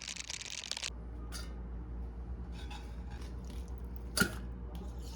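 Kitchen handling sounds during food preparation: a crinkling rustle that stops about a second in, then scattered light clicks over a low hum, with one sharp knock about four seconds in.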